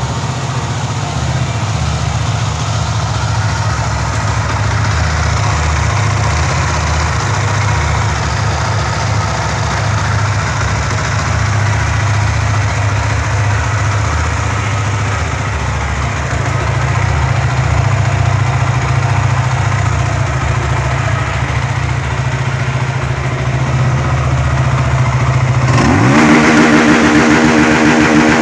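Benelli TNT 25 motorcycle's single-cylinder engine idling steadily, then revved up quickly near the end and held at a higher, steady speed.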